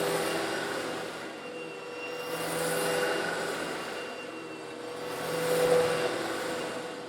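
Eureka vacuum cleaner running steadily while sucking up small coarse stone granules, a motor whine under a gritty hiss of grit going up the intake. The sound swells and eases about every two to three seconds.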